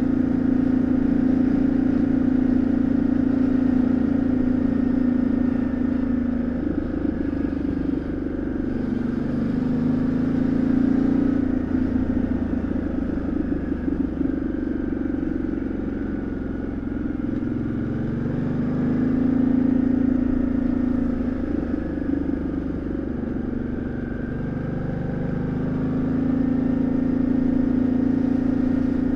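2013 Ducati Multistrada 1200S's 1198 cc L-twin engine and exhaust heard from onboard while riding. It runs steadily at first, then falls and rises again several times as the rider rolls off and opens the throttle, and ends on a steady pull.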